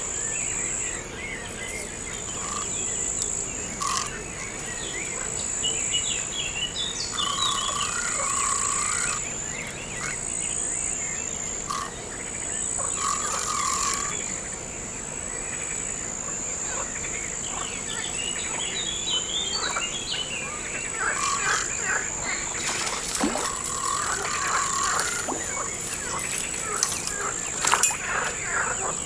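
Outdoor nature ambience: a steady high insect trill, like crickets, with birds chirping over it and short lower calls now and then. A few sharp clicks near the end.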